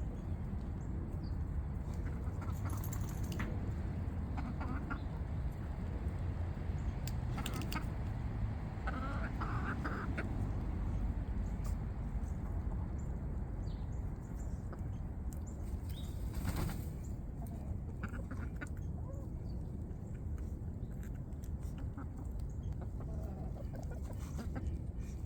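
Chickens clucking now and then over a steady low rumble, with a few short clicks.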